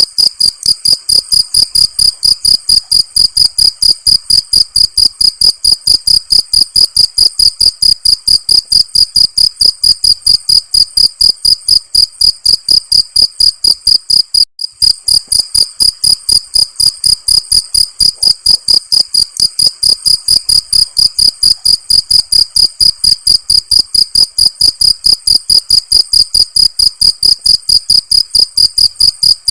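Crickets chirping in a steady, rapid, evenly spaced rhythm, high-pitched, with a brief break about halfway through.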